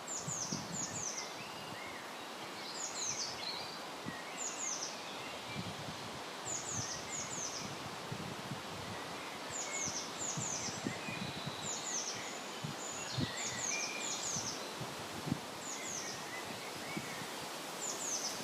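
Small birds calling: short, high notes that slide downward, mostly in quick groups of two or three, repeated every second or so, with scattered lower chirps. Under them is a steady rustle of wind in leaves.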